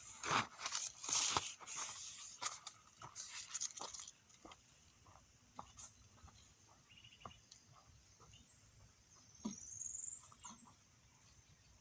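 Crunching and pattering for the first four seconds or so, then scattered light clicks; a short rising bird chirp near the end.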